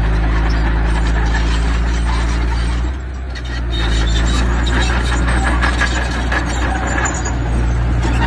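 A mini bulldozer's engine running steadily under load, with dense metallic clanking and rattling from its tracks and the stone it pushes. The engine dips briefly about three seconds in, and the clatter is thickest after that.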